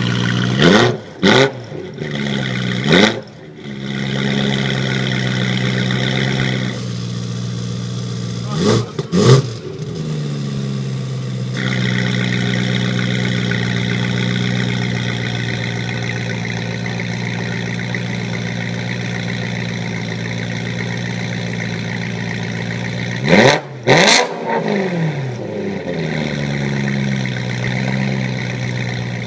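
BMW E92 M3's V8 through a Stanic Performance valved custom exhaust, very loud. It idles steadily and is blipped in quick revs: three near the start, two about nine seconds in, and two more about twenty-four seconds in, each dropping straight back to idle.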